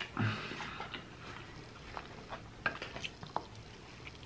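A person eating close to the microphone: chewing, with a brief low hum just after the start and a handful of light, sharp clicks in the middle.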